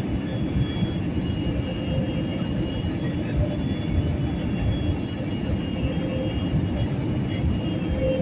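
Steady low rumble of a jet airliner heard from inside the passenger cabin, engine and airframe noise with no sudden changes.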